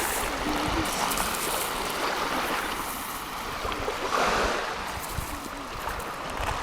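Sea waves washing, a steady rush of water with a swell about four seconds in.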